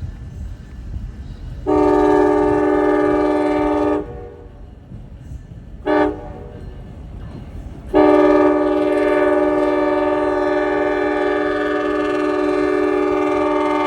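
CSX locomotive air horn sounding a multi-note chord: a long blast, a short toot, then another long blast that is still going at the end. This is the closing part of the long-long-short-long grade-crossing signal. A low rumble from the passing train runs underneath.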